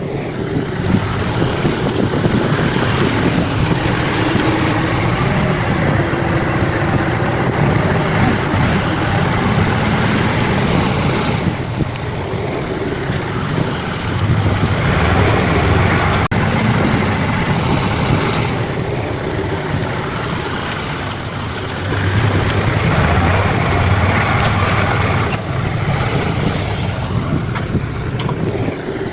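Bulldozer's heavy diesel engine running, its level rising and dropping several times.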